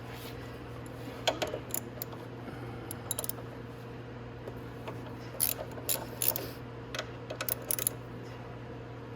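Scattered sharp metallic clicks and clinks of hand tools working on a motorcycle's front brake caliper bolts, in small clusters, over a steady low hum.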